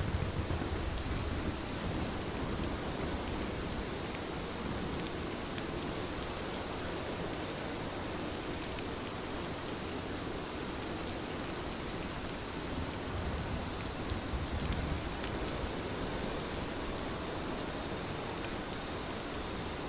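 Heavy rain falling steadily, with a low rumble in the first second or so and again about two-thirds of the way through.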